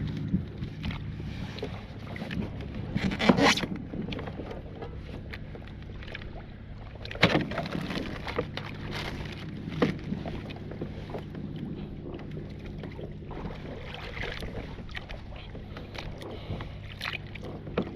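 Kayak on the water: wind on the microphone over a steady low hum, with several knocks of handling against the kayak, the loudest about three seconds in and others around seven and ten seconds.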